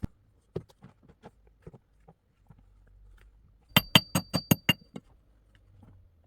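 Scattered light knocks and taps, then about four seconds in a quick run of about seven sharp clinks with a ringing tone, hard objects struck together, over in under a second.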